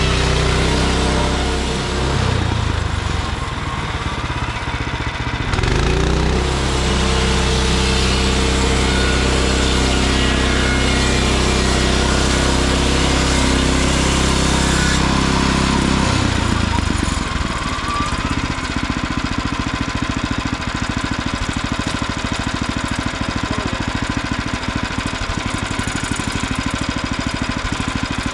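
Small gasoline engine of a Frontier OS23 bandsaw mill running: it speeds up about six seconds in, holds at high speed for some ten seconds, then drops back to a lower idle.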